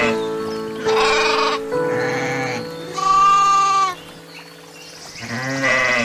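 Goats bleating: about five quavering calls, the longest and loudest about three seconds in. Soft background music with long held notes runs under the first half.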